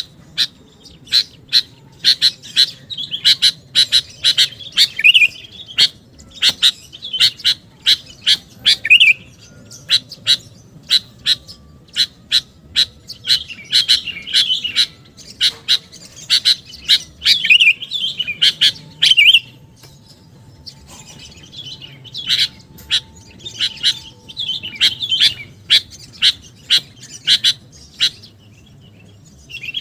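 Sooty-headed bulbul (kutilang) calling vigorously: rapid, sharp chip notes run together with short bubbling warbled phrases, with a couple of brief pauses in the latter half.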